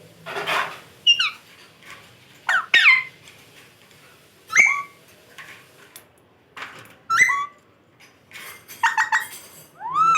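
Pet parrot calling: a string of short, sharp whistled squawks with quick pitch sweeps, coming every second or two.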